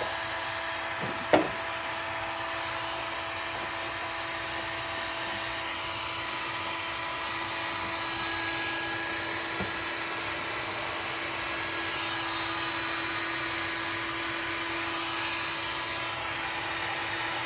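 Electric heat gun running steadily, its fan blowing with a constant whine, as it heats plastic to soften it. A single short knock sounds about a second in.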